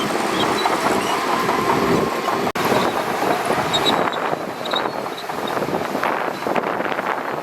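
Shantui DH17C2 crawler bulldozer running, with its steel tracks clanking and squealing. There is a run of clattering clanks in the second half. The sound cuts out for an instant about two and a half seconds in.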